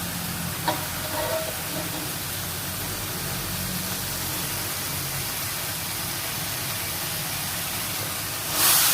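Stir-fried water spinach sizzling steadily in the pan, with a small click about a second in and the sizzle getting louder just before the end.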